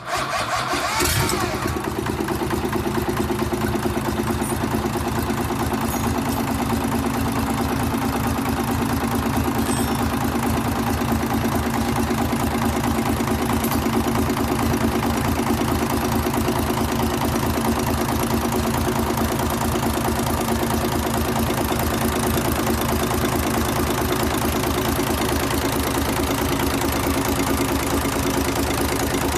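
Mitsubishi 6D15 inline-six diesel engine starting about a second in, then idling steadily with an even, rapid pulsing.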